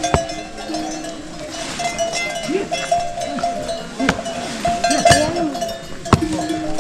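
Bells on livestock clanking and ringing, with a sustained ring and several sharp clanks about a second apart.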